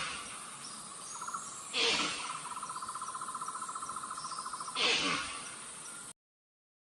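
Animal sounds: short harsh calls about three seconds apart over a fast, steady pulsing trill. The sound cuts off suddenly near the end.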